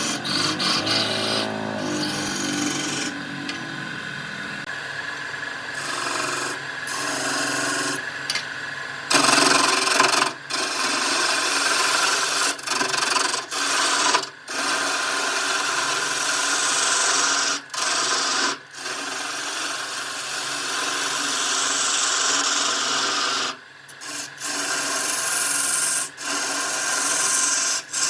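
Spinning wood on a lathe scraped by a tool held against it, a steady rasping hiss in long passes. It breaks off briefly several times as the tool comes away from the wood.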